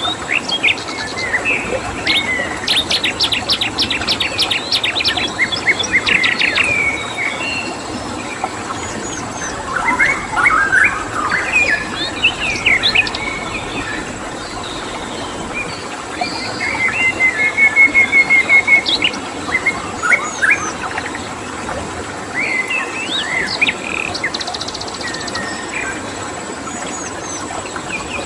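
Several wild birds chirping and trilling over a steady background hiss, with a rapid chattering run of notes a few seconds in and a quick string of repeated notes a little past the middle.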